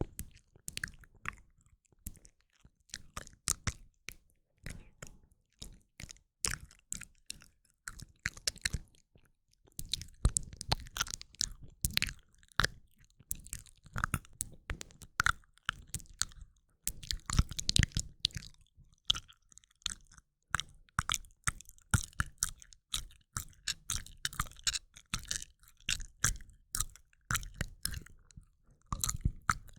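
ASMR mouth sounds made close to a microphone, moving ear to ear: many sharp, wet mouth clicks in quick, irregular runs, with short pauses between clusters.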